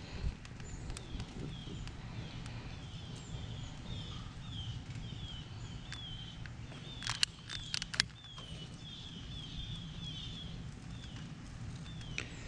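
A bird repeating a short falling chirp a few times a second over steady outdoor background, with a few sharp clicks of a butane utility lighter at the start and about seven to eight seconds in as a charcoal chimney starter is lit.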